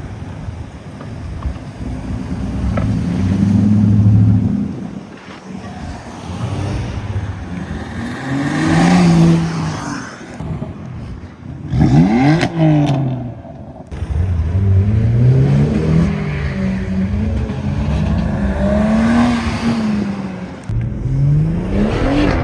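Cars accelerating past one after another, engines revving hard with pitch climbing and dropping as they change gear; one sharp rev about halfway through.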